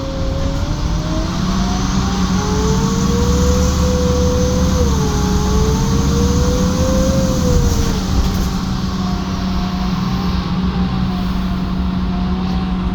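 Menarini Citymood 12 CNG city bus running under way, its engine note steady, with a whine above it that slowly rises and falls in pitch.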